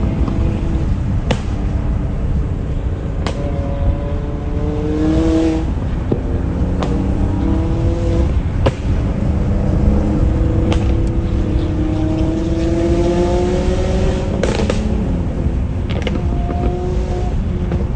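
Modified McLaren 570S's twin-turbo V8 with a loud exhaust, heard from a following car. The engine note rises in long pulls and drops back at the gear changes, with sharp pops every second or two over a steady low rumble.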